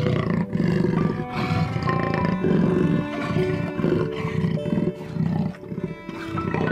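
A big cat, likely a tiger, calling in a run of repeated low pulses about twice a second, heard over background music with steady held tones.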